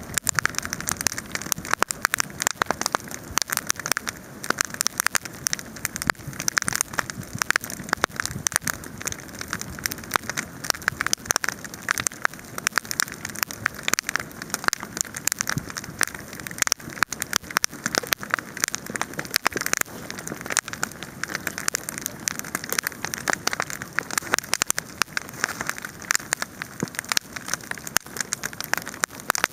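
Wood campfire crackling: a dense, continuous run of sharp crackles and snaps over a steady hiss.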